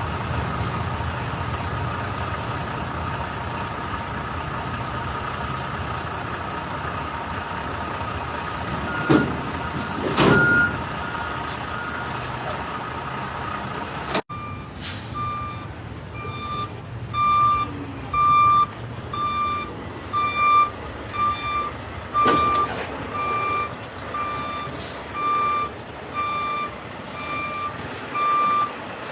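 Semi-truck engine running, with two short, loud noises about nine and ten seconds in; from about halfway, a reverse alarm beeping steadily, about once a second, as a truck backs up.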